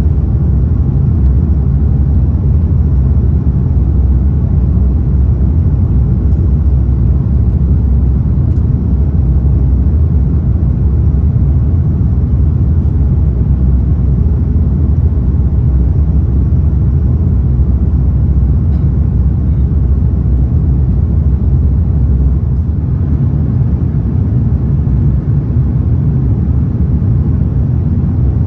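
Steady, loud low rumble of an Airbus A330-900neo heard from inside the passenger cabin: its Rolls-Royce Trent 7000 engines and the airflow over the fuselage. The deepest part of the rumble eases slightly about three-quarters of the way through.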